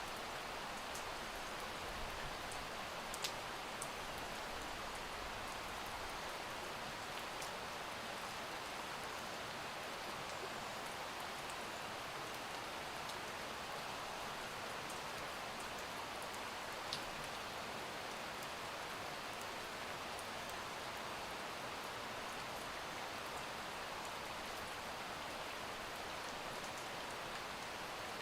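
Steady rain, an even hiss with scattered faint drop ticks and a sharper click about three seconds in.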